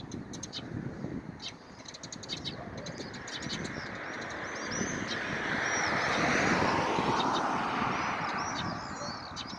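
Small birds chirping repeatedly, short high arching calls, with a broad rushing noise that swells over several seconds and fades again near the end.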